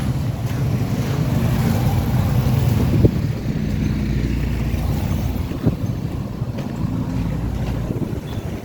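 Steady low engine rumble of street traffic, with wind buffeting the microphone. Two short sharp knocks stand out, about three seconds and six seconds in.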